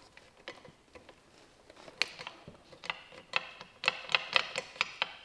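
Small metal parts of an Allison transmission's shift-kit valves and springs clicking and tapping as they are handled and fitted: scattered sharp clicks that come thick and fast in the last couple of seconds, some with a light metallic ring.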